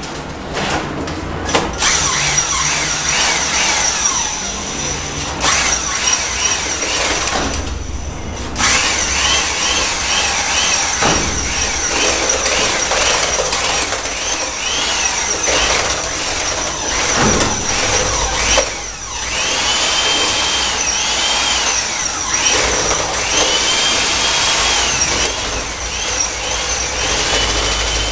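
Handheld electric drill-type mixer churning premixed cement mortar in a rubber tub. The motor whines steadily, its pitch dipping and recovering over and over as the paddle works through the heavy mix, with scraping and sloshing noise. It stops briefly about a second in and again around eight seconds.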